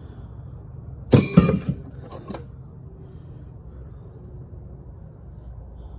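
Metal engine parts clinking together as they are handled: a quick cluster of clinks about a second in, and a shorter one about two seconds in.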